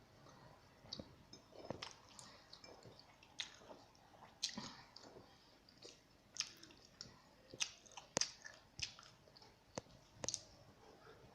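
An animal chewing dry cat kibble: a dozen or so irregular, sharp crunches.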